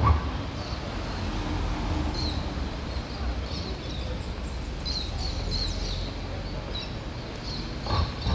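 Small birds chirping repeatedly in short high notes over a steady low rumble of city street noise, with a brief thump at the start and another just before the end.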